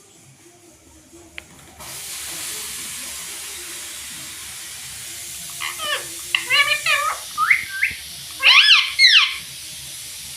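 A steady hiss comes in about two seconds in. Later a pet rose-ringed parakeet gives a run of short high calls that rise and fall in pitch, then two louder arched calls near the end.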